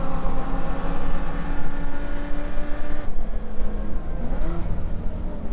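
Holden VK Commodore's 308 V8 heard from inside the cabin, holding a steady note through a corner. About three seconds in the note changes and drops back, then it starts rising again near the end as the car picks up speed.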